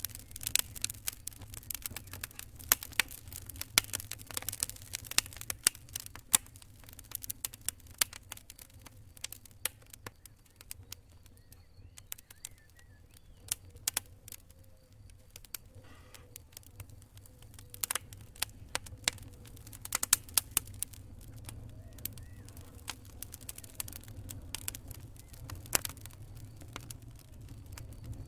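Campfire crackling: irregular sharp pops and snaps of burning wood over a low steady rumble, busier in the first few seconds and sparser through the middle.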